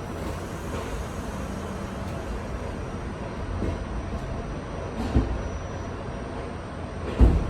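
R68 subway car running, a steady rumble, with a thump about five seconds in and a louder one near the end.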